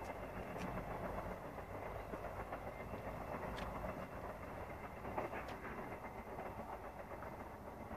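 Train passing on the railway, its rumble and wheel clatter steadily fading as it moves away, with a few faint sharp clicks.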